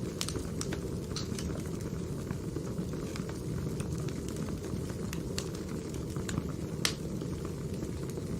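Burning firewood crackling: a steady low rush of flames with scattered sharp pops, one louder pop near the end.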